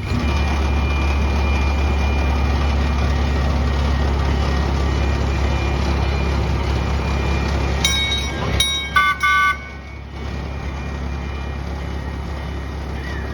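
A miniature train running with a low steady rumble, then its horn giving several short toots about eight to nine and a half seconds in. After that the rumble drops away.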